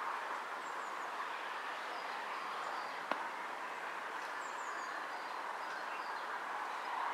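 Small birds chirping faintly over a steady outdoor background noise, with one sharp click about three seconds in.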